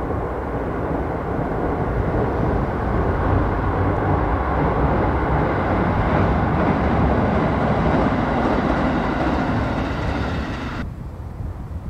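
A train running, a dense steady noise that swells through the middle; about eleven seconds in its higher part cuts off abruptly, leaving only a low rumble.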